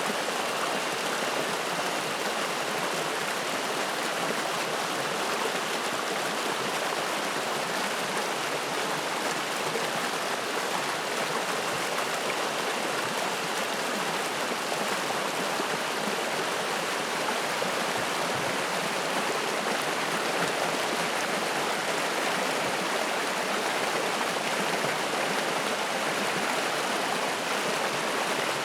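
Spring-fed mountain stream flowing and splashing over rocks, a steady, unbroken rush of water.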